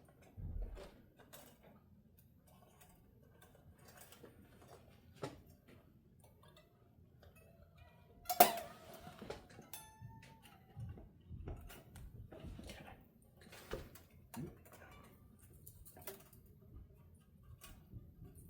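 Scattered light clicks and taps of small tools handled on a guitar's neck and frets, with one sharper knock about eight and a half seconds in.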